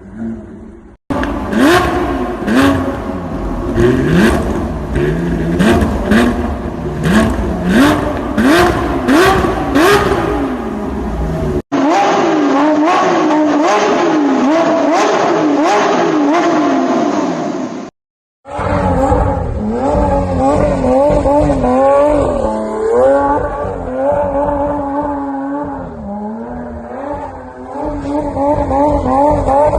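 Lamborghini Aventador SVJ's naturally aspirated V12 engine and exhaust revving, in three cut-together clips. First come repeated quick revs with sharp cracks at several peaks, then fast revs rising and falling. About two-thirds through, the engine pulls up and eases off through a few slower rises in pitch.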